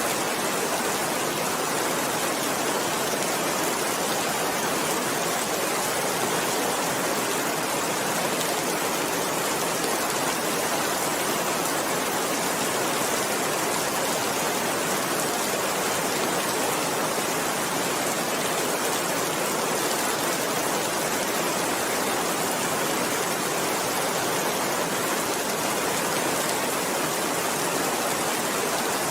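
Steady rain falling, an even hiss that holds constant with no thunder or other events.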